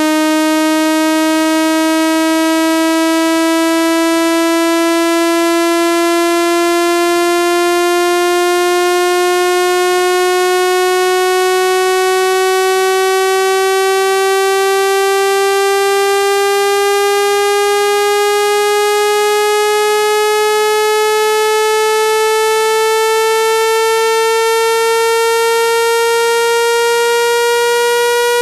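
Synthesized buzzy tone held at a steady loudness, its pitch climbing slowly and evenly throughout: a speaker-cleaning frequency sweep meant to vibrate water out of a phone speaker.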